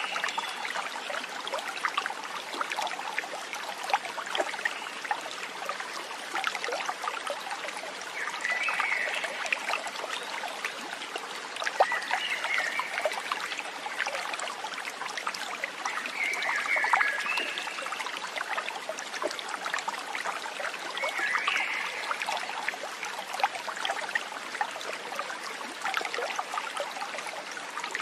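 Stream water trickling and babbling steadily, full of small splashes. A short animal call sounds over it about every four seconds, five times.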